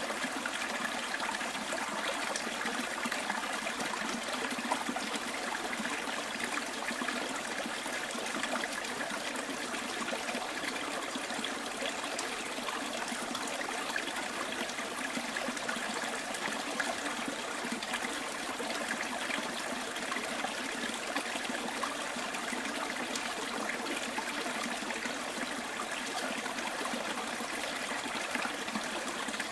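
Small bush stream running steadily over stones, an even trickling and babbling with many small splashes.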